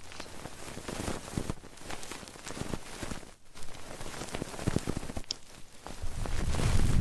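Close-up ASMR trigger sounds: dense crackling and scratchy rustling right at the microphone, with a heavier low rubbing from about six seconds in.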